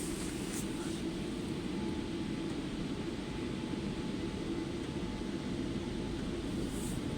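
Automatic car wash machinery and water working over the car, heard muffled from inside the cabin as a steady low rumble, with brief high hisses near the start and near the end.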